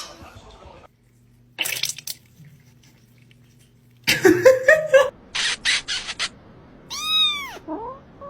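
Cats meowing: a wavering yowl about four seconds in, a quick run of short hissy bursts, then one long meow that rises and falls, with a weaker meow near the end.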